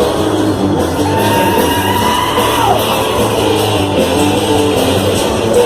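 Band playing rock-style worship music with singing. A long note is held for nearly two seconds and slides down at its end.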